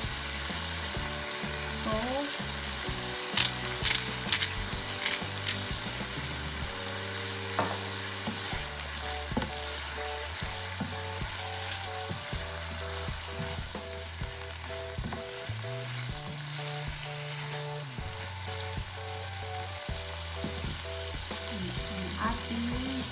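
Scallops and asparagus sizzling in a frying pan as they are stir-fried, a spatula stirring through them, with a few sharp clicks about three to four seconds in.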